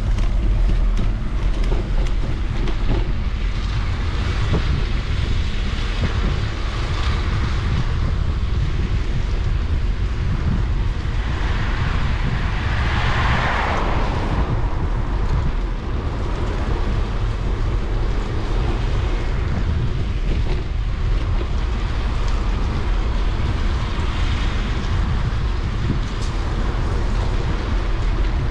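Wind rumbling on the microphone of a bicycle being ridden in the rain, over a steady hiss of tyres on the wet path. A louder hiss swells and fades about halfway through.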